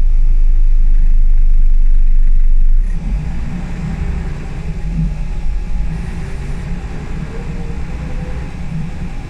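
Interior of a Scania L94UB single-deck bus on the move: a heavy low rumble for about the first three seconds that drops off suddenly. It is followed by engine and road noise, with the engine note rising and falling as the bus pulls along.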